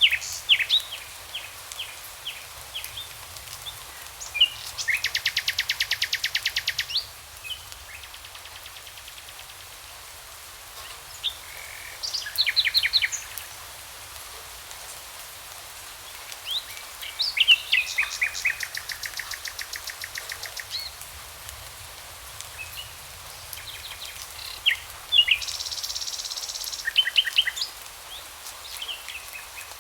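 Songbirds singing in the forest: several phrases of fast, even trills, each lasting one to three seconds, with short chirps between them, over a steady background hiss.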